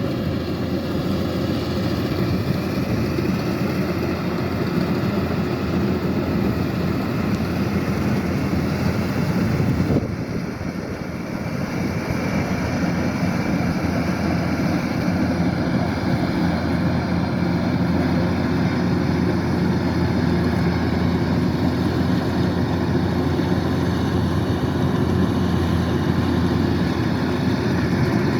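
Kubota DC-105X combine harvester running steadily, its diesel engine and threshing machinery going together, with a sudden brief dip in level about ten seconds in.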